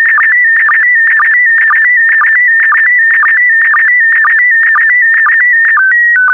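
Slow-scan TV image signal in PD120 mode: a loud warbling electronic tone that jumps quickly between high pitches, broken by a short lower blip about twice a second as each pair of picture lines is sent. Near the end the pattern gives way to a few longer steady tone steps as the image transmission finishes.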